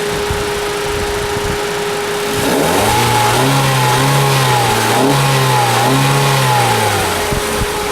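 2018 Ford EcoSport SES's 2.0-litre naturally aspirated inline four-cylinder idling, then blipped three times in quick succession about two and a half seconds in, the pitch rising and falling with each rev before it settles back to idle near the end.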